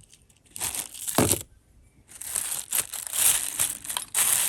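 Crinkling and rustling from sorting through a box of costume jewelry by hand, in irregular bursts, with a brief thump about a second in.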